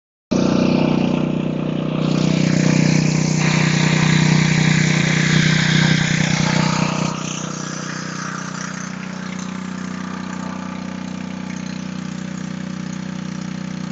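Small portable generator engine running steadily on natural gas, a constant engine drone that eases somewhat quieter after about seven seconds.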